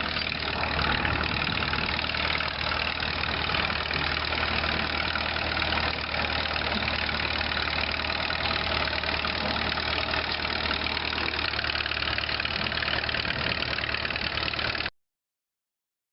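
Antique tractor engine running steadily at a tractor pull. The sound cuts off abruptly near the end.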